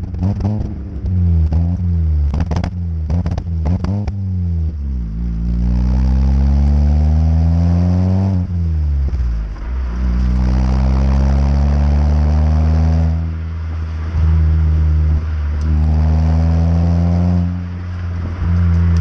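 Vauxhall Astra H 1.8 VVT four-cylinder petrol engine through a stainless cat-back exhaust, with a run of sharp cracks over the engine note at first. It then accelerates hard, the note rising and dropping back at each gear change, four times.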